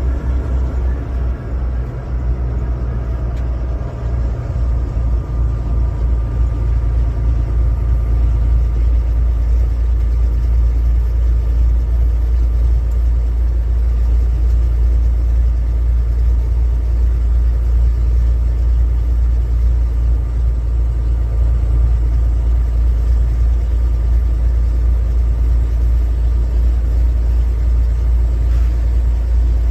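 Steady low rumble of a car's engine and tyres heard from inside the cabin while driving on a highway.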